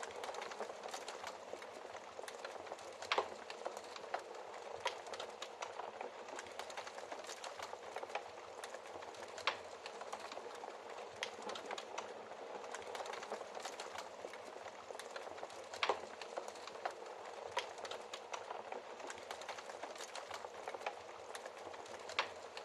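Wood fire crackling in a fireplace: a steady soft hiss full of small crackles, with a few louder sharp pops spaced several seconds apart.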